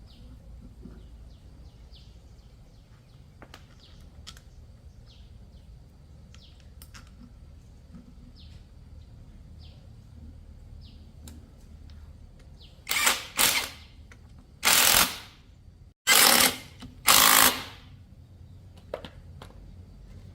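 Light scattered tool clicks, then five short loud hissing blasts of pressurised gas in quick succession, about two thirds of the way in.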